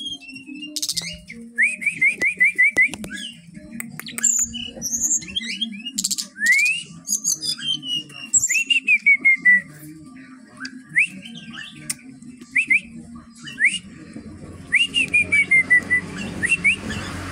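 Brown-chested jungle flycatcher singing continuously in varied whistled phrases: quick runs of repeated notes, sharp rising sweeps and slurred falling notes, with short pauses between phrases.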